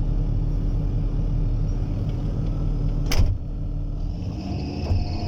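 Diesel engine of a Kobelco SK120 excavator running steadily, a four-cylinder turbo. About three seconds in there is a sharp click, after which the low rumble drops and a higher steady whine comes in.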